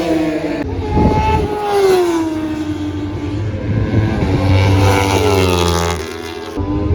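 Racing superbike engines at high revs passing close by, their pitch sweeping down and up as the bikes go past and change gear. The sound changes abruptly about half a second in and again near the end.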